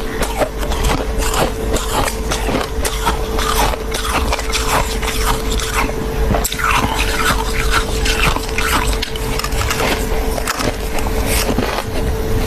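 Soft freezer frost being bitten and chewed: a dense run of crisp crunches and crackles, under a steady hum.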